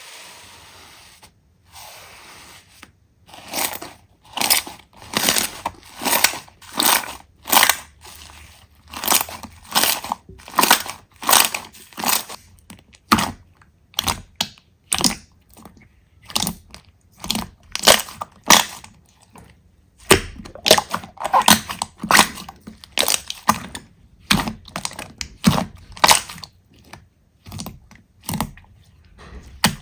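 Slime being squeezed and pressed by hand, giving a series of crisp, crackling squelches about two a second. It starts softly and grows louder a few seconds in, with a short pause about two-thirds of the way through.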